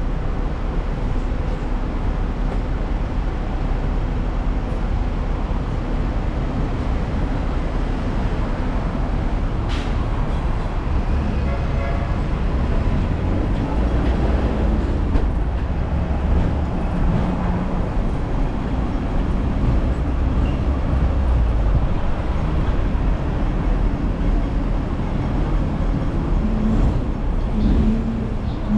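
Ride noise of a Hong Kong double-decker tram on the move: a steady low rumble of wheels on rail and motor, mixed with street traffic, with one sharp knock about ten seconds in.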